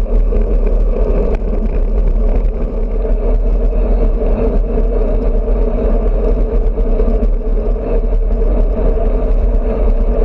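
Steady wind noise on a bicycle-mounted GoPro microphone at riding speed, mixed with tyre and road noise.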